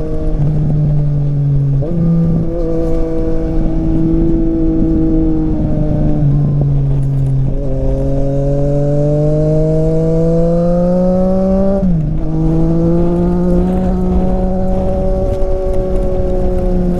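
Triumph Street Triple RS three-cylinder engine through an SC-Project exhaust, heard from on board while riding. The engine note climbs and eases with the throttle, with sharp pitch changes from gear shifts about two seconds in, midway and about three-quarters of the way through.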